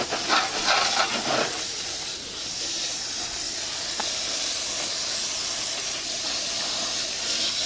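Water from a garden hose spraying into a window air conditioner's dirty coil and cooling fins: a steady hiss of spray, more uneven and splashy in the first second or so.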